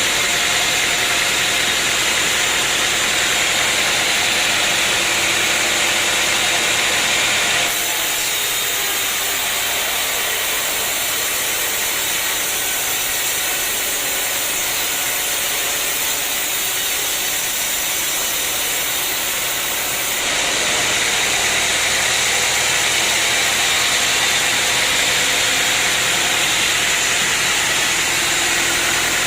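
Sawmill machinery running steadily, a constant mechanical din with a strong hiss. The sound changes abruptly about eight seconds in and shifts back about twenty seconds in.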